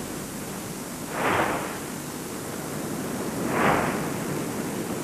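Soft swishes of water lapping, twice about two seconds apart, each swelling and fading over half a second above a steady hiss.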